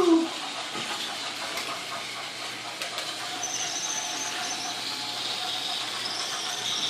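Battery-powered Tomy toy trains running on plastic track: a steady whirring hiss of small motors and gearing, with a faint steady hum joining in for a few seconds midway. A short, loud falling squeal right at the start.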